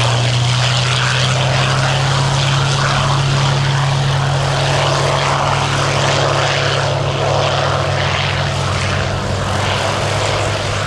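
Hawker Hurricane Mk.IV's Rolls-Royce Merlin V12 engine and propeller in flight: a loud, steady low drone that holds an even pitch.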